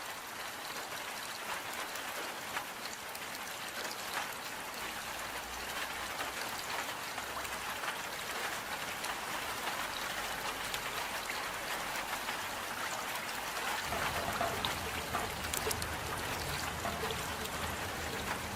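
Steady rain falling: an even hiss with scattered drop ticks. A low rumble joins in about three quarters of the way through.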